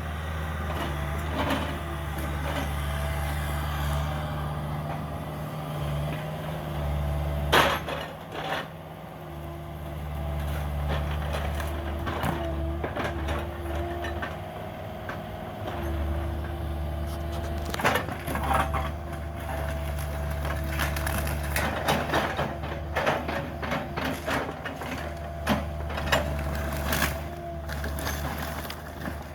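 Cat 305 mini excavator's diesel engine running steadily under load, with a faint whine over it, while wood and debris crack and crunch as the house is torn down: a sharp crack about seven seconds in, another around eighteen seconds, and a busy run of snapping and crunching near the end.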